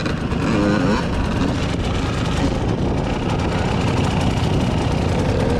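Wind buffeting the microphone of a moving vehicle: a loud, steady rush that covers the engine running underneath.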